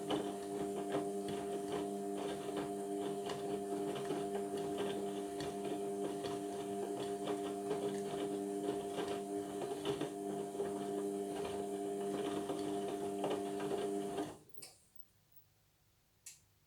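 Indesit washing machine running partway through a Cotton 60 wash cycle: a steady motor hum with many small clicks. It cuts off suddenly about fourteen seconds in, leaving near silence with one faint knock.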